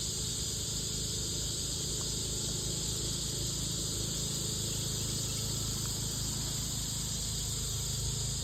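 Steady outdoor insect chorus, a continuous high-pitched shrill drone from many insects, with a low steady hum underneath.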